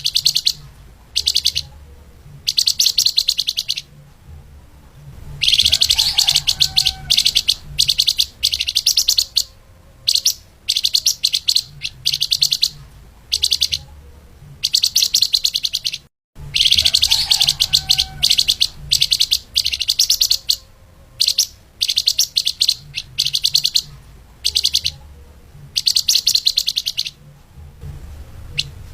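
Flamboyan (lemahan) songbird singing rapid, tightly packed high chirping phrases in repeated bursts with short pauses between them, over a faint low hum. The song cuts out for a split second about sixteen seconds in.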